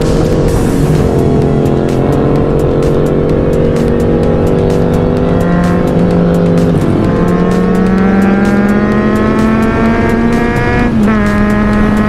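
Kawasaki Z900's inline-four engine pulling under acceleration on the road, its pitch climbing in each gear and dropping at gear changes about seven and eleven seconds in. Wind rush on the rider's microphone runs underneath.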